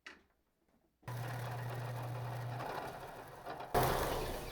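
A metal lathe's motor running with a steady hum. It starts abruptly about a second in, and near the end it grows louder and noisier.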